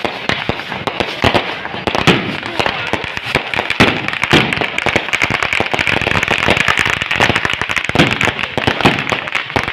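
Fireworks and firecrackers going off without a break: dense, rapid crackling and popping, many bangs a second, with a few louder bangs among them.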